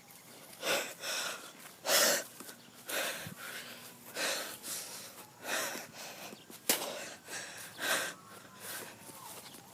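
A person breathing hard and heavily close to the microphone, loud breaths coming roughly once a second.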